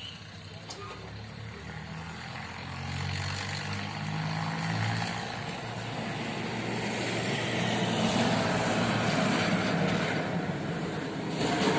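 Motor vehicle engine running with a low hum, its noise growing steadily louder.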